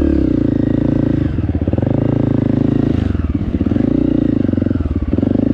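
Honda CRF 250 four-stroke trail bike engine running under load, its revs rising and falling several times as the throttle is opened and closed.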